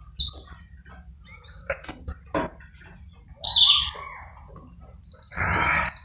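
A small bird chirping a few thin high notes, among light clicks and knocks of a mug on a table. Near the end comes a loud sip of hot tea.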